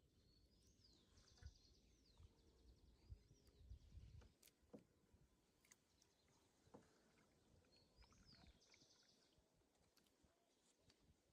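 Near silence with a faint bird song heard twice: a quick rising note running into a rapid trill, at the start and again about eight seconds in. Faint low rumbles and a few soft clicks in the first few seconds.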